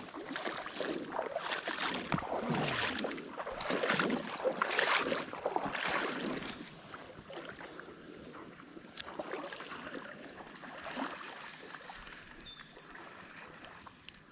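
Creek water splashing and sloshing in a run of strokes about a second apart, moving through the water, then easing off to a quieter steady rush after about seven seconds.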